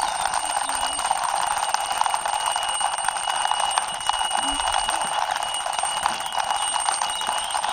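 Toy police motorbike pushed along by hand, giving a steady, fast rattling buzz like an alarm-clock bell.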